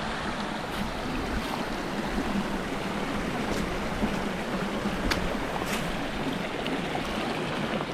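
Steady rush of a mountain creek and waterfall, with a few faint clicks over it.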